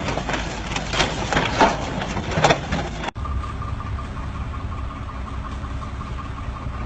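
Heavy machine's diesel engine running, with several loud clanks and knocks in the first three seconds. The sound cuts abruptly about three seconds in, and an engine runs on steadily with a faint whine.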